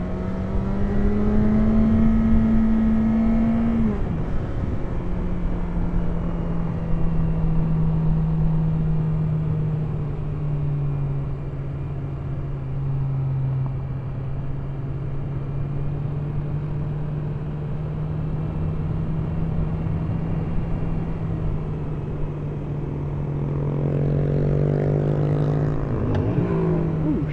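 Sportbike engine, heard from the rider's seat, cruising at a steady note with wind rush. Its pitch steps down a couple of times early on as it eases off or shifts up, and revs rise again near the end.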